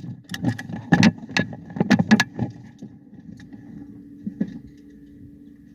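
A quick run of clicks, knocks and rattles from things being handled inside a car, over a steady low hum. The clicking thins out after about three seconds, leaving mostly the hum.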